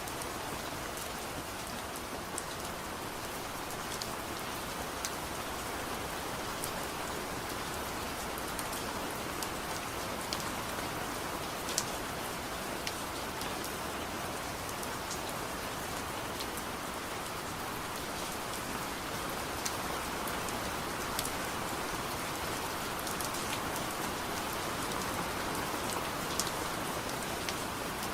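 Soft, steady rain, with scattered sharp ticks of individual drops or crackles over an even hiss.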